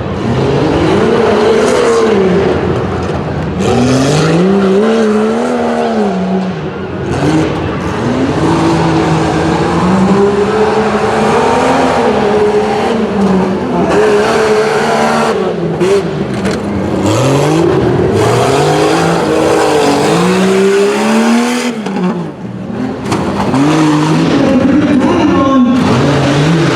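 Jeep Cherokee XJ engine revving hard, its pitch climbing and dropping again and again as the driver works the throttle over a tough-truck course, heard from the driver's helmet.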